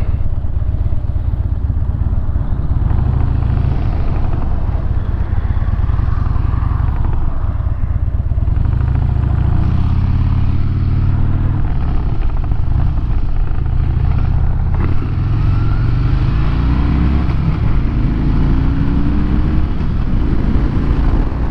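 2007 Harley-Davidson Dyna Wide Glide's Twin Cam 96 V-twin engine running on the road. The engine note rises several times in short steps in the last third as the bike speeds up.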